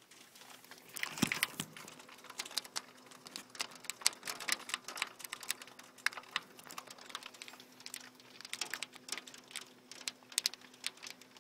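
Pea-sized hail and rain pattering on a hard surface: a dense, irregular run of sharp ticks of varying loudness.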